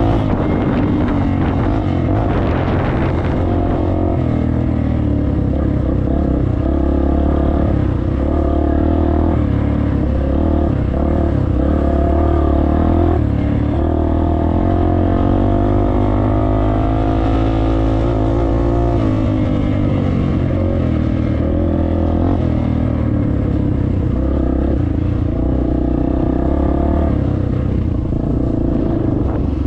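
Dirt bike engine running as the bike is ridden, its revs rising and falling repeatedly with the throttle.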